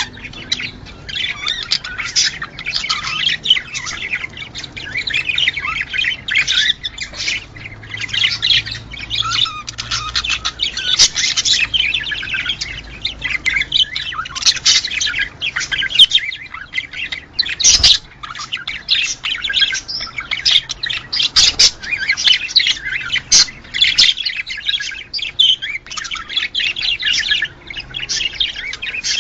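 A flock of budgerigars chattering and warbling without pause, a dense run of quick high chirps and squawks, with one sharp click about two-thirds of the way through.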